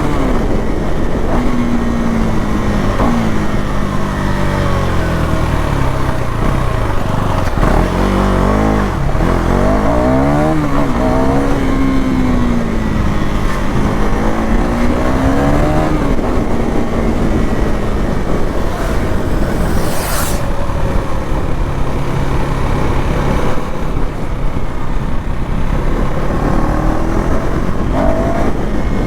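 KTM Duke 390 Gen 3's single-cylinder engine running through its stock exhaust, its revs rising and falling several times in the first half and then holding steadier. A brief hiss comes about two-thirds of the way through.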